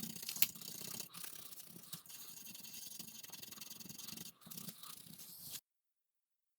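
A brush scrubbing excess solder flux off a circuit board: a steady, fast scratching with short breaks about one, two and four seconds in, stopping abruptly near the end.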